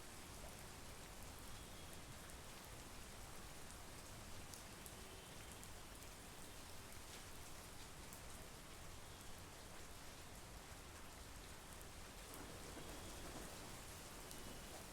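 Steady monsoon rain falling, a soft even hiss with scattered individual drop ticks. It swells slightly and gets a little deeper near the end.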